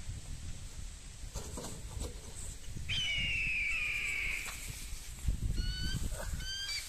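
Birds calling: one long, slightly falling whistled note about three seconds in, then a string of short, sharp rising notes near the end, over a low rumble.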